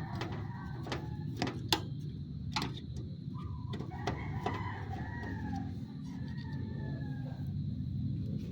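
A rooster crowing once, beginning about three seconds in and lasting a couple of seconds, over a steady low hum. A few sharp clicks come in the first three seconds.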